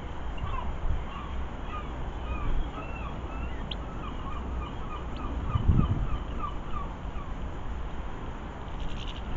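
A bird calling over and over in a quick series of short, rising notes, against steady wind noise on the microphone that gusts stronger about six seconds in.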